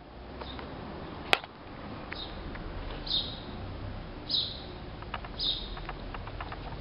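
Short high bird chirps, four of them about a second apart, with a single sharp click about a second in and a few light ticks near the end.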